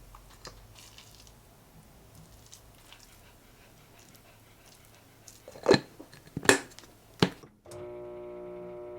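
Three sharp knocks, like dishes or utensils being handled, then a steady pitched electric hum that starts shortly before the end.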